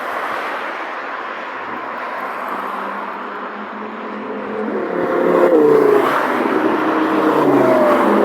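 Sports car engines accelerating over a steady rushing noise; from about halfway in, the engine note gets louder and its pitch rises and drops in steps, like gear changes.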